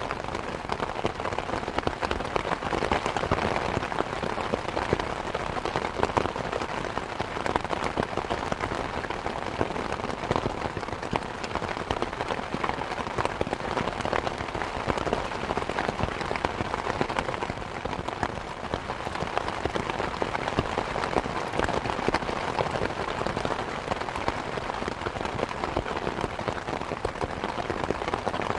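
Steady rain falling in a dense, even patter of drops, mixed with the crackle of a wood fire in a fireplace.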